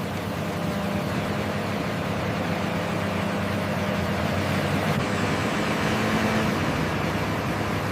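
Logging machine's engine running steadily with a level hum.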